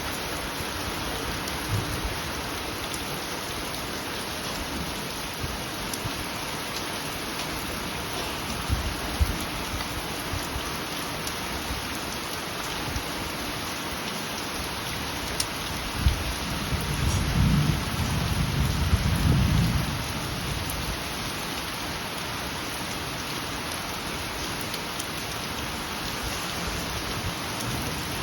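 Steady rain falling, an even hiss of drops hitting surfaces, with a few scattered knocks of heavier drops. About two-thirds of the way through, a low rumble of thunder swells for a few seconds and fades.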